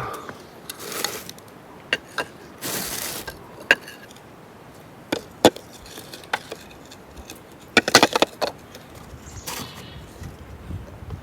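Scattered knocks and clicks of objects being handled, with a short scraping rush about three seconds in and a quick cluster of knocks about eight seconds in.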